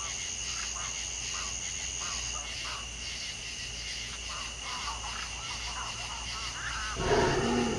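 African wildlife ambience: a steady high insect drone at two pitches, the higher one stopping about a third of the way in, with scattered short chirps and calls. A louder animal call comes near the end.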